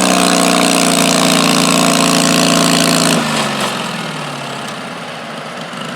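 Garden pulling tractor's engine running loud and steady, then throttled back about three seconds in, its pitch sliding down as it drops to a quieter run.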